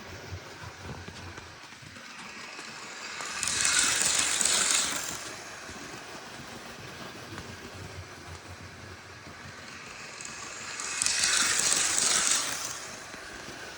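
Model High Speed Train (Class 43 power cars and coaches) running on its track, passing close by twice: each pass swells into a loud metallic rattle of wheels on rail for a second or so, then fades back to a quieter running hum.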